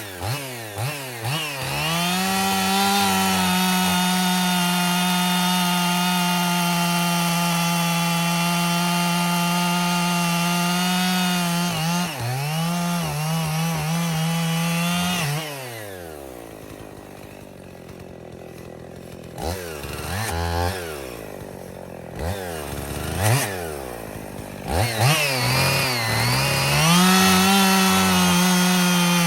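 Two-stroke chainsaw, a Husqvarna 55, held at high revs for long stretches. It blips the throttle a few times at the start, drops to idle about halfway through, gives several quick throttle blips, then revs back up near the end.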